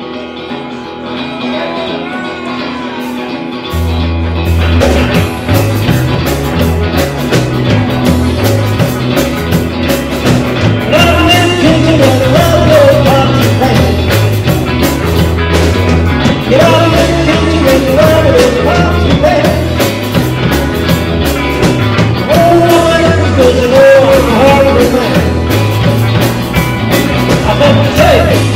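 Live rock and roll band playing. It starts thin, then the bass and drums come in about four seconds in and the full band plays on loud and steady.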